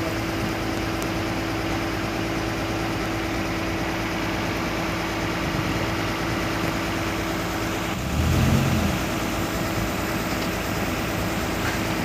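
Heavy diesel construction machinery running steadily, with a brief louder low surge about eight seconds in.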